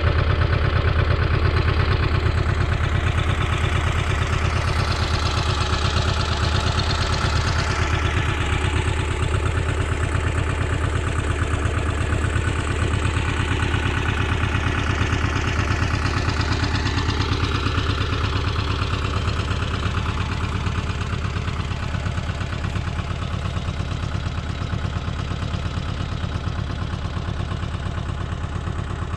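Goldoni 933 RS DT tractor's diesel engine running steadily with a low, even drone and some clatter.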